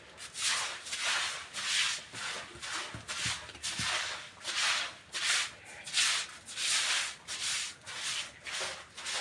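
Brush scrubbing a washroom floor with back-and-forth strokes, about two a second, working off leftover cement.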